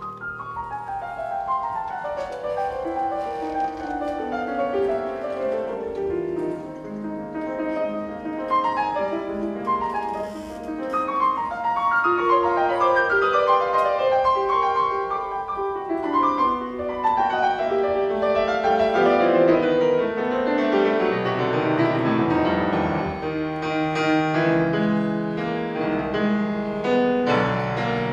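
Solo piano in a classical piano concerto, playing a dense passage of fast runs that rise and fall.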